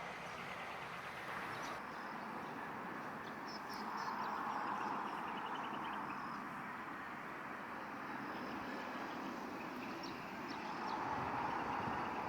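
Steady distant engine noise that swells twice, with small birds chirping faintly above it and a short trill a few seconds in.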